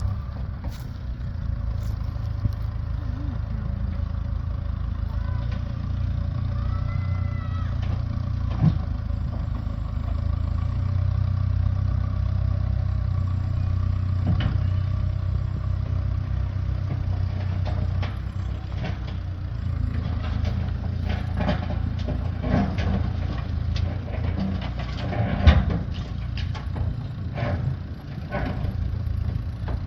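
Engine running steadily with a low hum, with scattered knocks and clanks in the second half, the loudest about 25 seconds in.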